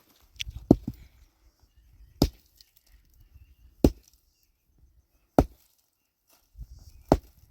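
Axe chopping wood: a few sharp strikes about a second and a half apart.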